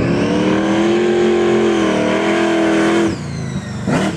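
Car engine revving hard and held high, then the note drops sharply about three seconds in as the throttle comes off. A short, sharp blip of revs follows near the end.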